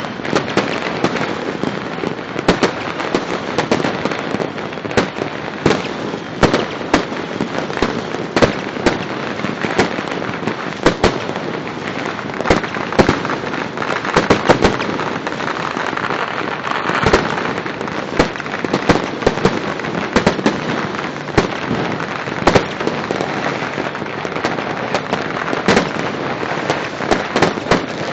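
Many fireworks and firecrackers going off at once: a continuous crackling din with frequent sharp bangs.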